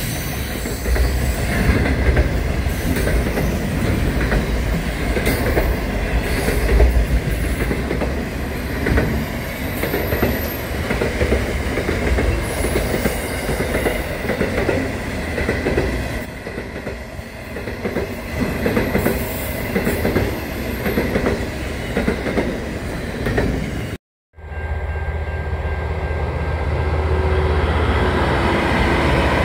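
Freight train's container wagons rolling past at speed: a steady rumble and clatter of steel wheels on the rails, with some faint wheel squeal. About 24 s in the sound cuts out abruptly and gives way to the steadier, deeper rumble of a diesel locomotive passing.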